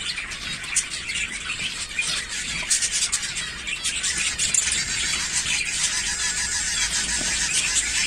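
Zebra finches calling continuously, a dense chatter of many short overlapping chirps and beeps.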